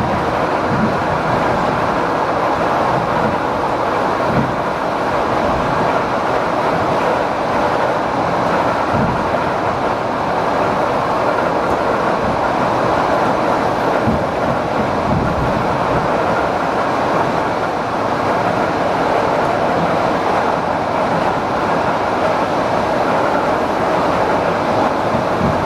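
ED4M electric multiple unit running at speed between stations: a steady rush of wheel and rail noise with scattered low knocks from the track.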